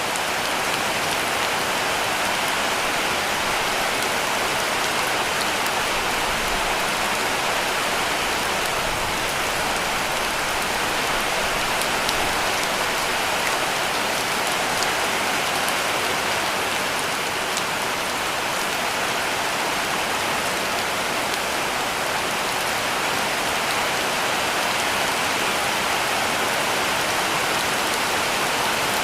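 Heavy rain falling steadily on a cabin roof: an even, unbroken hiss with a few faint drop ticks in it.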